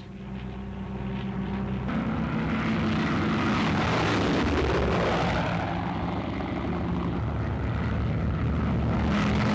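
Twin piston engines of a Junkers Ju 88 droning in flight. The sound builds over the first two seconds and swells to its loudest around the middle as the aircraft passes.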